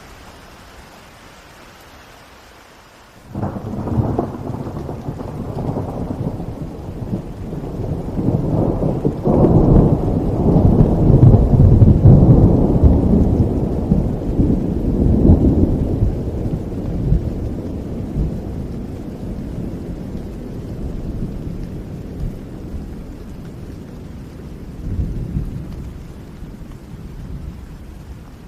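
Steady rain falling, then about three seconds in a long roll of thunder breaks in sharply, swells to a deep rumble and slowly dies away.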